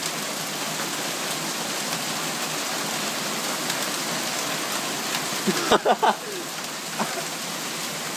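Heavy rain and hail pouring down steadily in a dense hiss. About five and a half seconds in there are a few brief louder knocks and sounds.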